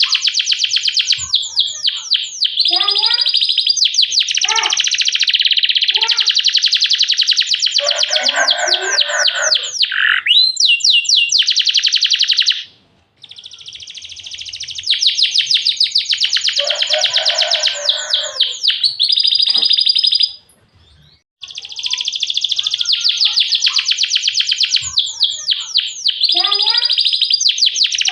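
Domestic canary singing a long, high-pitched song of rapid rolls and trills. The song breaks off briefly twice, about halfway through and again about three-quarters through.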